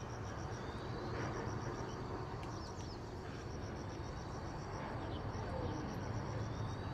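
Insects chirping in a rapid, even pulse of about six chirps a second over a steady high whine, with a few short bird chirps about a second and two to three seconds in, and a low hum underneath.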